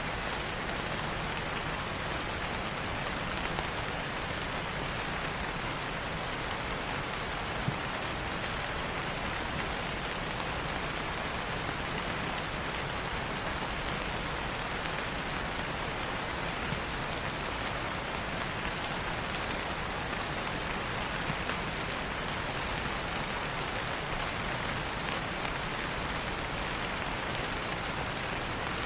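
Steady rain falling, an even hiss with an occasional louder drop.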